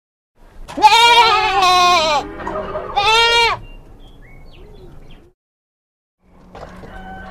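Sheep bleating twice: a long, wavering bleat, then a shorter one about a second later, followed by softer sounds.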